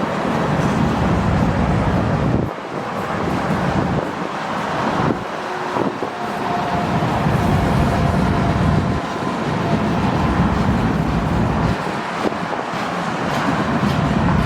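Freight train rolling past, a steady loud rumble and rush of wheels and cars, with wind buffeting the microphone so the low rumble swells and drops every few seconds.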